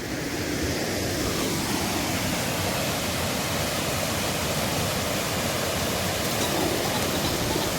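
Steady, unbroken rush of a rain-swollen stream in spate, a raging torrent of fast-flowing water.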